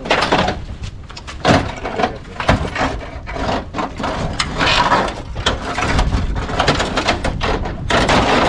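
Irregular clatter, knocks and scraping of hands and tools working on a car's engine bay.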